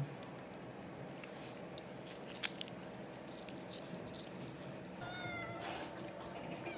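A domestic cat meows once, a short call about five seconds in, followed by a brief rustle; a single sharp click sounds about two and a half seconds in.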